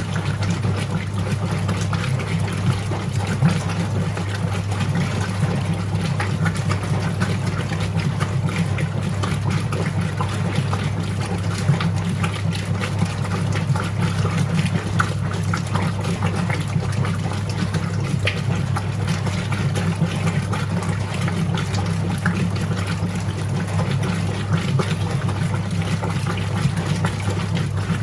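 Whirlpool direct-drive top-loading washing machine running mid-cycle: a steady motor hum with water churning in the tub.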